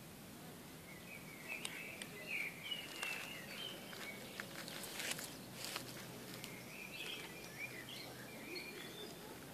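A small songbird sings warbling phrases in two spells over a steady outdoor hiss, with a few short clicks in the middle.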